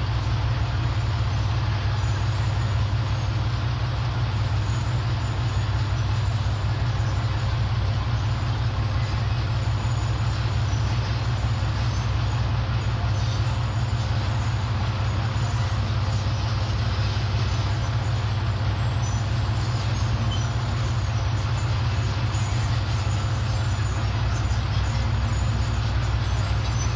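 Komatsu D31PX bulldozer's diesel engine running steadily: a constant low drone with no change in speed.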